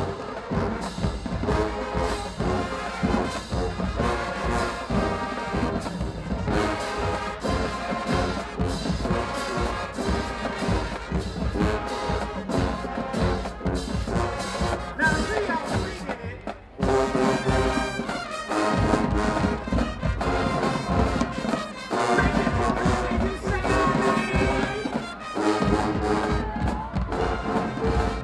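Marching band brass section and drumline playing a loud up-tempo tune with a steady drum beat, breaking off briefly about two-thirds of the way through and coming back in together.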